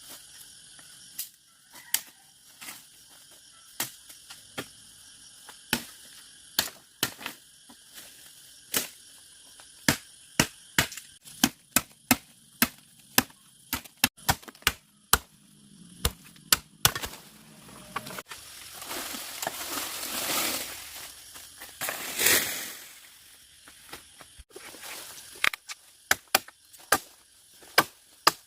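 A series of sharp blows on wood, irregular at first, then coming about one to two a second. A stretch of rustling and a louder harsh crash come partway through, and the blows pick up again near the end.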